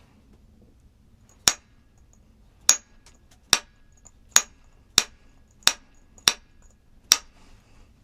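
Eight sharp, hard knocks, hard object on hard object, spaced under a second to just over a second apart, a few leaving a short high ring.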